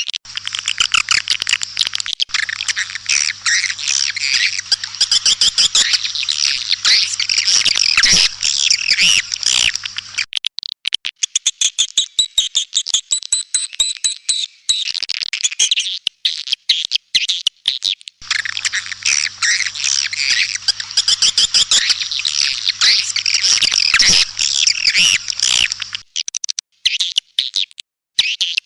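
Swiftlets chattering: a dense, rapid twittering of many birds at once, the recorded calling sound played to lure swiftlets. The chirping thins out for several seconds in the middle, then comes back as dense as before, with a faint low hum under the busiest passages.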